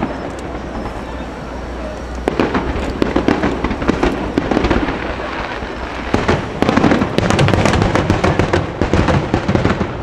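Aerial fireworks shells bursting in rapid volleys during a display finale, sharp bangs packed close together. It is calmer for about the first two seconds, then comes a dense run of bursts, a short lull near the middle, and another dense volley.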